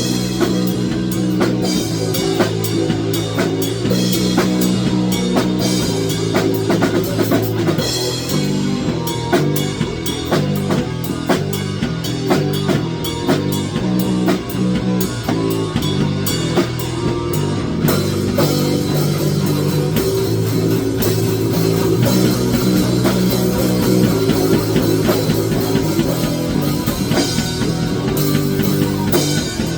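Rock music played on drum kit and electric guitar, with a steady beat.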